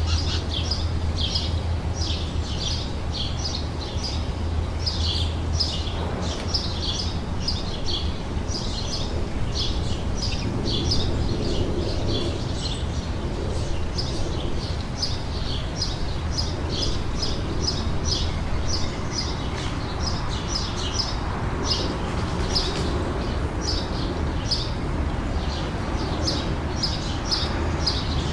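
Songbirds chirping and singing, with short high chirps coming several times a second without a break, over a low steady rumble that is strongest in the first few seconds.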